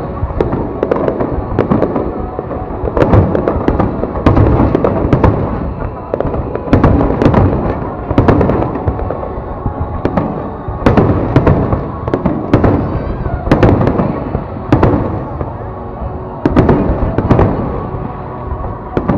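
Fireworks display: aerial shells bursting one after another, many sharp bangs in clusters every second or two.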